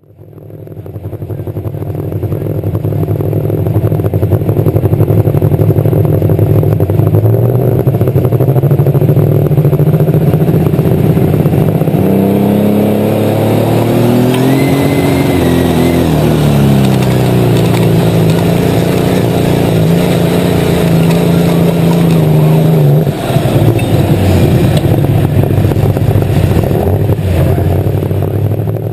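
Light super stock pulling tractor engine running hard, heard on board. Its pitch climbs about halfway through and falls back, then the steady note breaks into a rougher sound about two-thirds of the way through.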